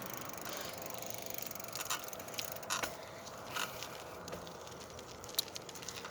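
Faint steady background noise with a handful of short clicks and knocks scattered through it, the sharpest about five seconds in.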